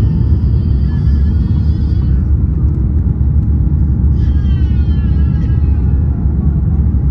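Steady low rumble of Airbus A350-900 cabin noise, the Rolls-Royce Trent XWB engines and airflow, heard from a window seat in economy. A voice comes faintly over it twice.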